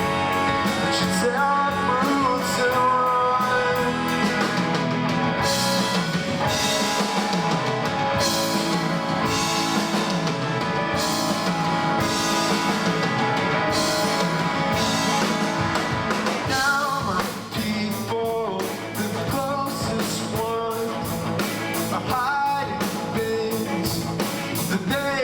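Live rock band playing an instrumental passage: electric guitars over bass and drums with steady cymbal hits. Bending melodic notes come in after about two-thirds of the way through.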